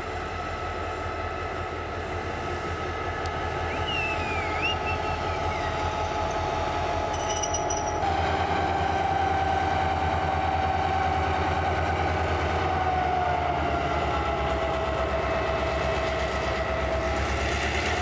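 A train running by, growing louder over the first half, with a steady whine whose pitch drops in the second half as it passes.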